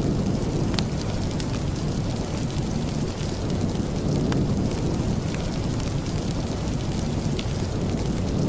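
Steady rain ambience, a constant wash of noise heaviest in the low end, with scattered faint clicks.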